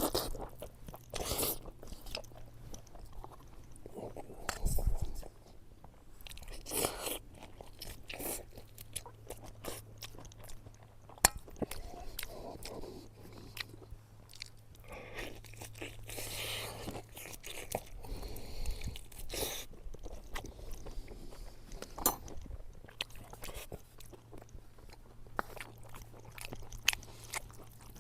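A person chewing and biting food close to the microphone, with scattered short crunches and wet clicks, over a faint steady low hum.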